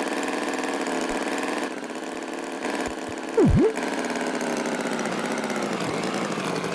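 An engine running steadily, like an idling tractor engine. About three and a half seconds in, a short loud tone dips down and slides back up.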